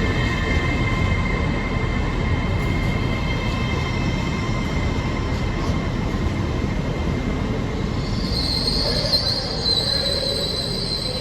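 Train running through a station with a steady heavy rumble and thin steady whining tones. About eight seconds in, a louder high-pitched wheel squeal sets in and holds.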